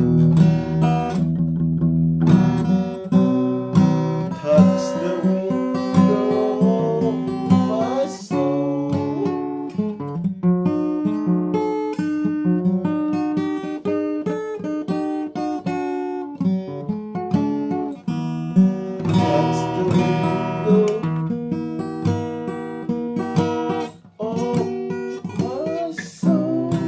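Acoustic guitar music, strummed and plucked chords.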